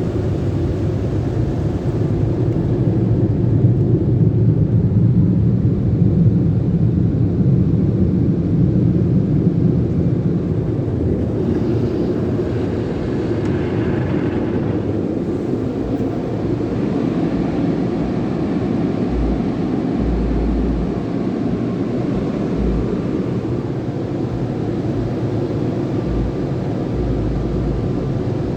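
Automatic tunnel car wash machinery running, heard from inside the car: a steady low rumble, with a louder hiss about twelve to sixteen seconds in.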